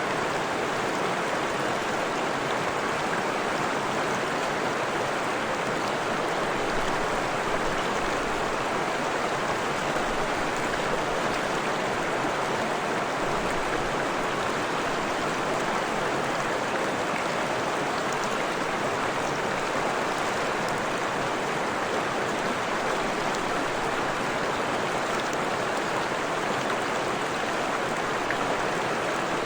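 Freshwater forest stream running, a steady, even rush of flowing water.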